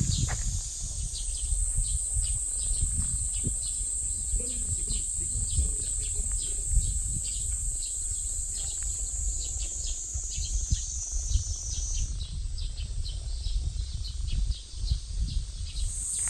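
Cicadas buzzing in a steady high drone that drops out about twelve seconds in and comes back near the end, with short chirps repeated two or three times a second over a low rumble.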